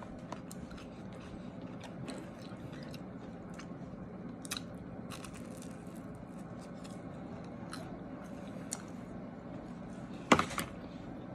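Close-miked chewing of food, with scattered small crisp clicks and smacks of the mouth and a sharper click about ten seconds in.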